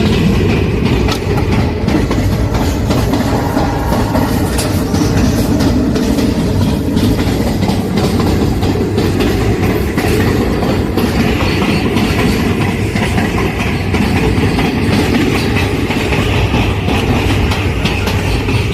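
Train running on rails: a steady, loud rumble with the rattle and clicking of wheels over the track.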